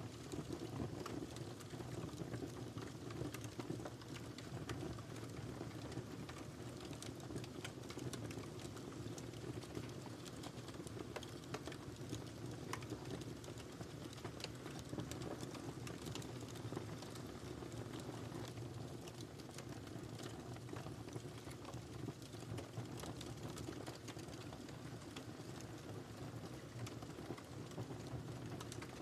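Wood fire crackling in a fireplace: many small, irregular pops and snaps over a steady low rumble of burning.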